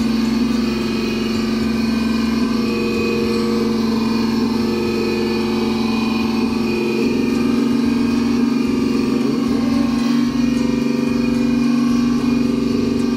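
RC sound unit playing a simulated turbo diesel engine through its small speaker, running steadily.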